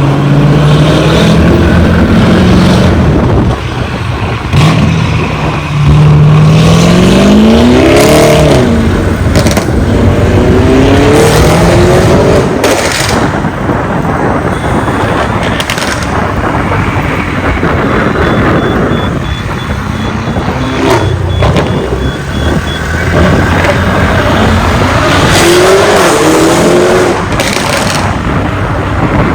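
Lamborghini Urus twin-turbo V8 through a Novitec aftermarket exhaust, loud throughout, revving and accelerating several times with rising engine pitch and sharp cracks in between.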